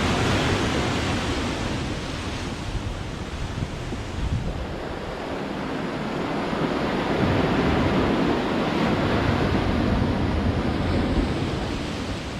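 Sea waves breaking and washing up the shore in a continuous surf, swelling louder about halfway through and easing off near the end.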